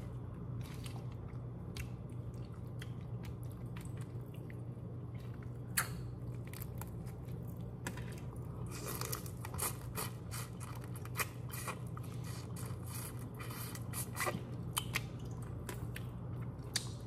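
Chewing and crunching of broiled head-on shrimp close to the microphone, with scattered sharp clicks of shell, busiest about nine to ten seconds in, over a steady low hum.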